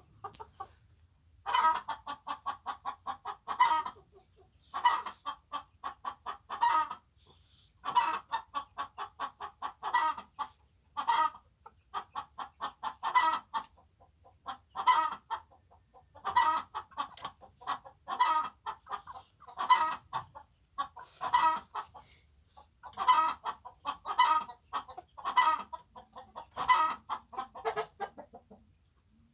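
Chickens clucking: repeated bouts of quick clucks, each run lasting a second or two, coming one after another with short gaps.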